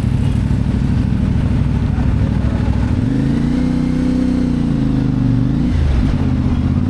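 CFMoto 450MT motorcycle's parallel-twin engine running under way. Its note rises and then falls back between about three and six seconds in.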